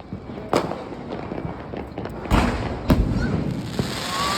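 Aerial fireworks going off outdoors: three sharp bangs, about half a second, two and a half and three seconds in, the last two close together.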